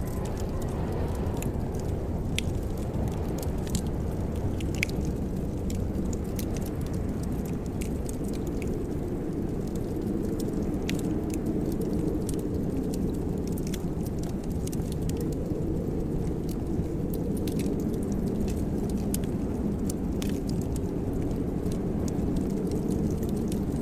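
Wood fire burning in a fireplace, with sparse sharp crackles and pops over a steady low rumble.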